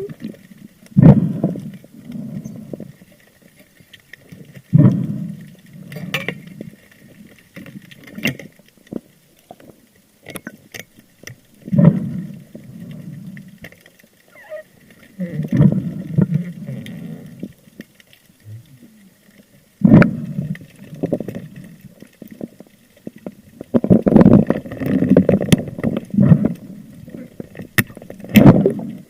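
Muffled heavy breathing through a snorkel, loud bursts every few seconds with faint clicks and water sounds between.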